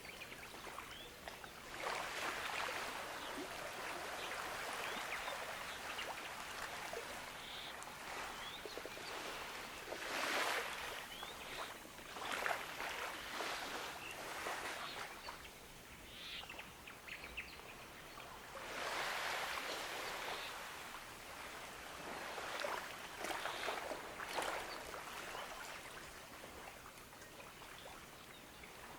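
Gentle ocean waves washing onto a beach, a steady hiss that swells with each wash every several seconds.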